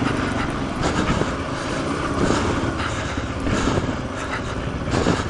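Suzuki DR-Z400's single-cylinder four-stroke engine running at low revs, rising and falling as the bike crawls up rocky, muddy ground. A few short knocks are heard along the way.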